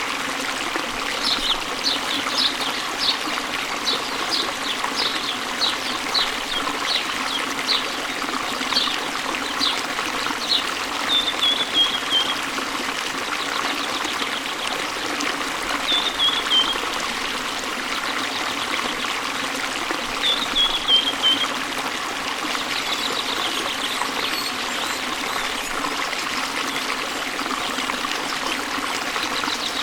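Waterfall and stream, a steady rush of falling and flowing water. Over it a bird calls: for the first ten seconds a run of short, sharp notes about two a second, then short descending trills three times.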